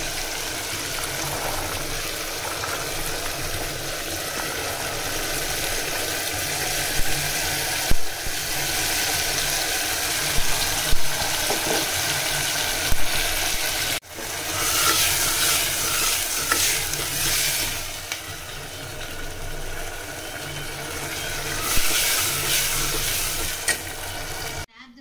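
Food sizzling as it fries in a pan while being stirred, with a few sharp knocks of the spoon against the pan. There is a break about 14 seconds in, after which the sizzling goes on.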